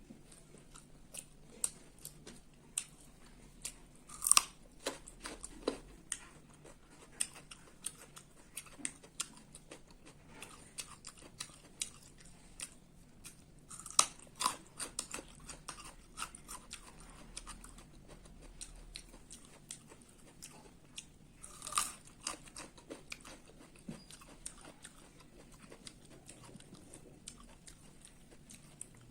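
A person chewing and biting food close to the microphone, with many small wet clicks and crunches. The louder bites come a few seconds in, around the middle, and about two-thirds through.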